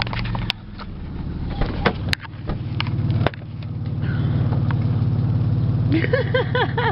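Car engine idling steadily, with a few knocks and rubs from the phone being handled as it swings round. Near the end, a voice breaks in with a quick run of short rising-and-falling sounds.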